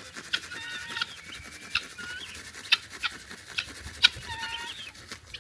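Birds giving short chirping calls, with sharp clicks or taps scattered among them about every half second to second.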